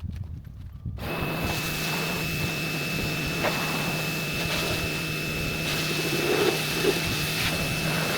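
A motor-driven machine running steadily, with a rushing hiss, a constant high whine and a low hum. It cuts in suddenly about a second in.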